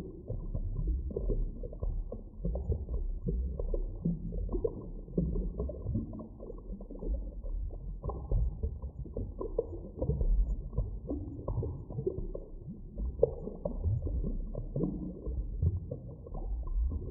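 Muffled deep-water ambience: a continuous low rumble with frequent small clicks and crackles and a few short wavering tones, all dull and low in pitch.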